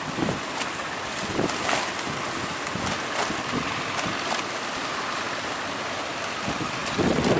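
Strong wind buffeting the microphone over the steady wash of sea waves, with a louder gust near the end.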